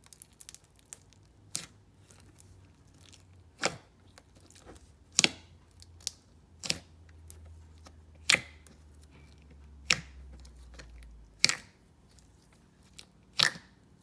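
Thick, glossy foam-bead slime being worked by hand, with sharp clicking bubble pops about every one and a half seconds between softer crackles.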